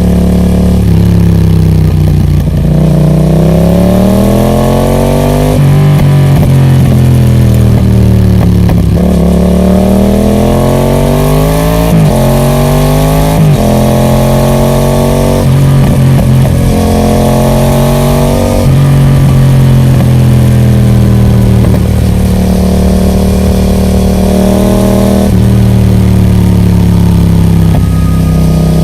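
Yamaha MT-07's parallel-twin engine running through a Roadsitalia Special Carbon aftermarket exhaust while being ridden. The pitch repeatedly climbs under acceleration, then drops sharply at gear changes or falls away as it slows.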